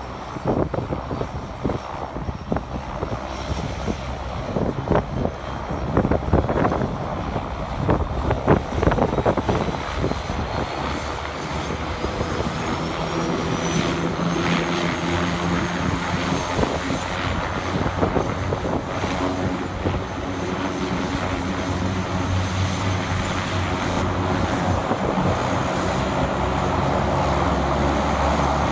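Beechcraft King Air 90's Pratt & Whitney PT6A turboprop engine starting: a whine rises in pitch as the engine spools up, then it settles into steady running with the propeller turning, growing louder toward the end.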